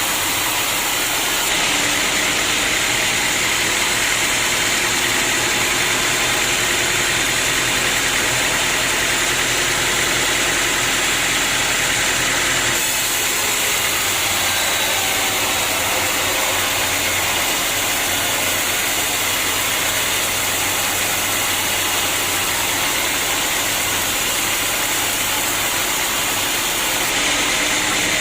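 Sawmill machinery running steadily, a loud even mechanical noise. It shifts abruptly a few times, about a second in, near the middle and near the end.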